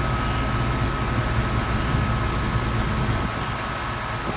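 Crane truck's engine running steadily under load while hoisting a rooftop HVAC package unit, with a thin steady whine over the low engine note. The engine sound eases a little about three seconds in.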